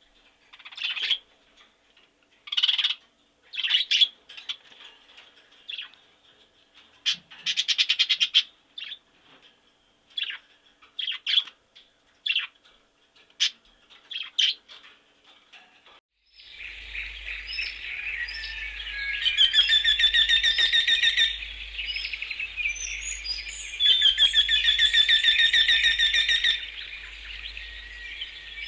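Birds calling and singing: separate short chirps and call phrases with quiet gaps between them, then, about sixteen seconds in, an abrupt change to a busier chorus with a faint steady hum underneath and two long repeated trills.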